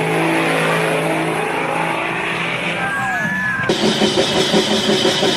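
Diesel engine running at a steady speed. About three and a half seconds in, the sound cuts abruptly to a pulsing engine note with a quick regular beat.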